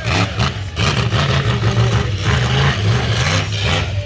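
Monster truck engine running loud, its pitch rising and falling as the throttle is worked.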